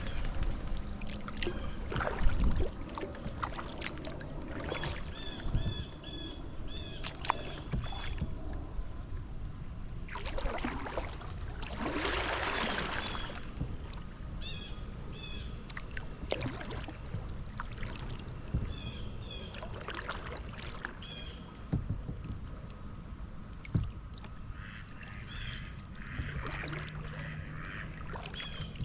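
Kayak paddle strokes: water swishing and splashing, with sharp knocks of the paddle. A bird calls several times over it in quick runs of short, high chirps.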